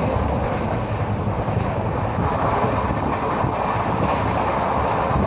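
Train running on the rails, heard through an open carriage window, with a freight train's wagons rushing past on the next track: a steady rumbling rush that grows louder about two seconds in.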